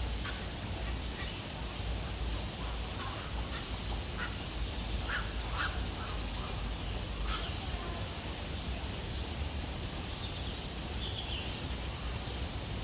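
Birds giving a series of short, sharp calls, bunched together a few seconds in, over a steady background hiss and low hum.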